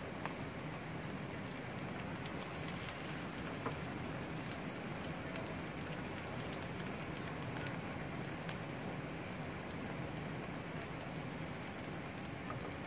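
Egg and rice frying in a non-stick frying pan: a steady sizzle with a few small pops.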